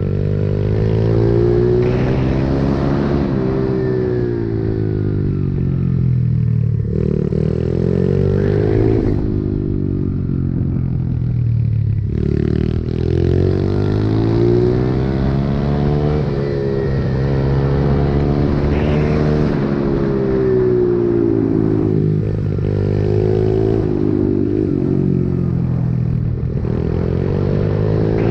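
Pit bike engine revving up and down over and over, its pitch climbing as it accelerates and dropping as it slows, about every five seconds.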